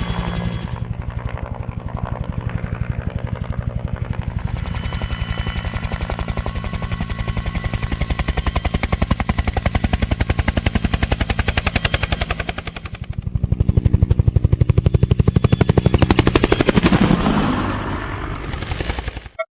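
A battle sound effect: the fast, steady chop of helicopter rotor blades mixed with machine-gun fire. It dips briefly about two-thirds of the way through, comes back louder, then cuts off suddenly near the end.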